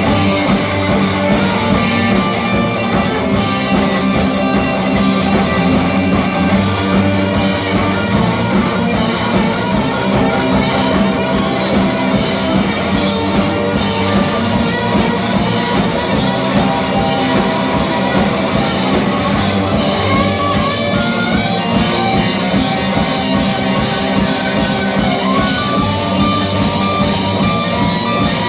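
Rock band playing live, with electric guitar over a drum kit.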